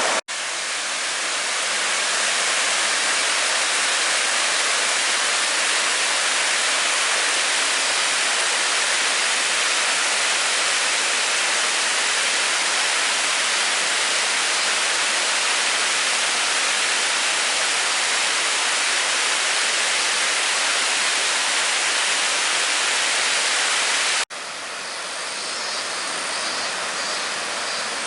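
Steady rush of flowing stream water. It changes abruptly about 24 seconds in to a somewhat quieter rush, with faint high chirps over it.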